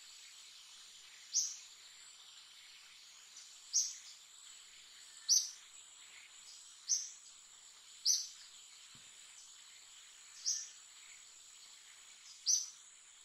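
A bird repeating a short, high, falling chirp, seven times, roughly every one and a half seconds, over a steady high-pitched insect drone.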